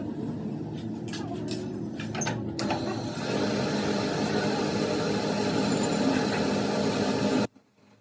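Workshop machinery running with a steady hum and a few clicks, growing louder and harsher about two and a half seconds in, then cutting off abruptly near the end.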